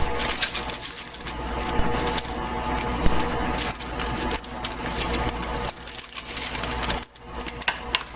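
Parchment paper being cut and handled: dense crinkling and crackling with rapid crisp clicks.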